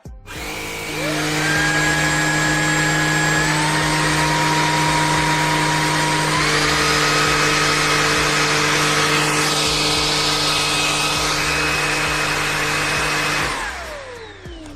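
Cordless stick vacuum cleaner (Tineco A30S) motor switched on, spinning up to a steady high whine with a rush of air, and stepping up in speed twice. It is switched off near the end and winds down in a falling whine.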